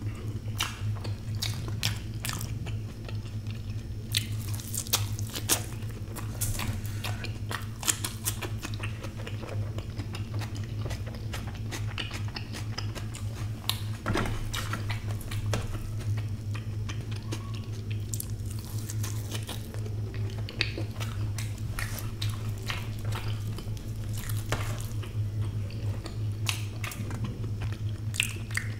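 Close-miked chewing and biting of soft fried eggs eaten by hand: frequent short wet clicks and smacks of the mouth. A steady low hum runs underneath.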